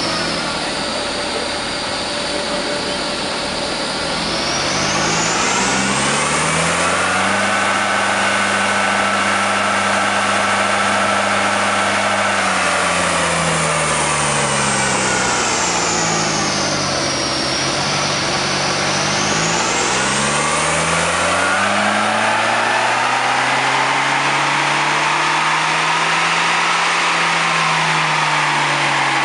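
Volkswagen Passat engine running on a rolling-road dyno. Its revs hold steady for the first few seconds, then climb, hold, fall away and climb and hold again. A high whine rises and falls with the revs.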